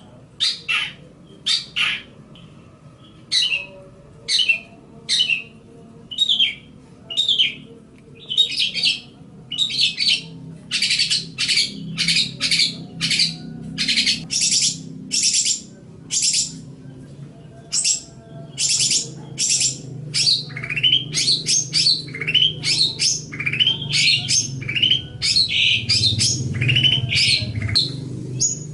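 Long-tailed shrike (cendet) singing: a fast, continuous string of short, sharp chattering notes and harsher squawk-like calls, several a second.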